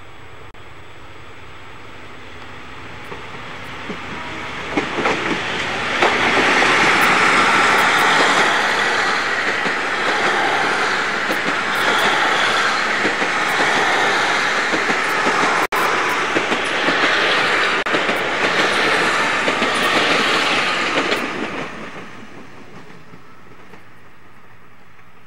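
Diesel express train running past on the rails. It grows louder over the first few seconds as it approaches, stays loud for about fifteen seconds while it goes by, then fades away.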